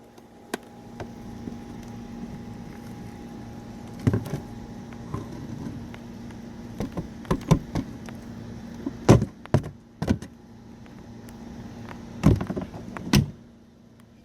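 Irregular plastic clicks, knocks and clatters as a vacuum cleaner's dust container is opened and knocked out, about ten separate knocks with the loudest near the end, over a faint steady hum.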